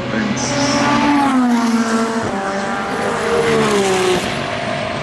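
Endurance race car engine passing close by at speed, its pitch falling as it goes past, then climbing and falling again about two and four seconds in as it accelerates and lifts.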